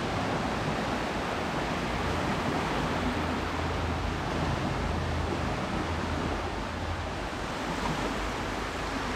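Ocean surf: waves washing in continuously, a steady rushing noise with no breaks.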